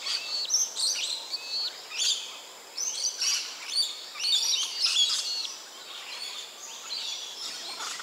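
Birds chirping: many short, high notes, some dropping in pitch, busiest in the first five seconds and sparser after that, over faint outdoor hiss.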